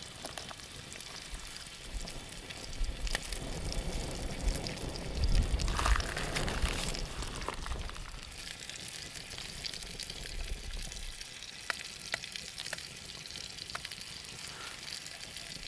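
Food sizzling and crackling in a frying pan over a wood fire, with scattered small pops. A low rumble runs underneath, swells around the middle and stops about eleven seconds in.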